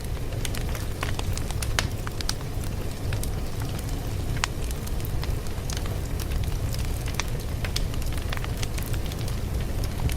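Fire crackling: a steady low rumble of burning with irregular sharp pops and snaps scattered throughout.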